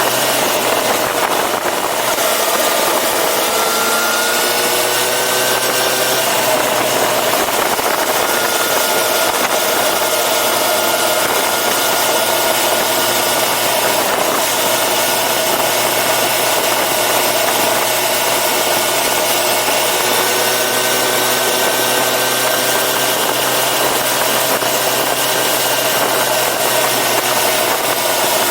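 Yamaha FZ6R's 600 cc inline-four engine running under way, its pitch rising and falling gently with the throttle, with steady wind rush over the microphone.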